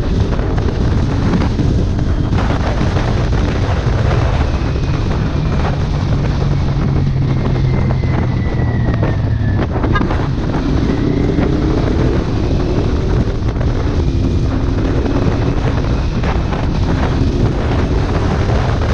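Kawasaki Ninja 400 parallel-twin with an aftermarket exhaust, under way, its note climbing and dropping back a few times, mixed with heavy wind noise buffeting the microphone.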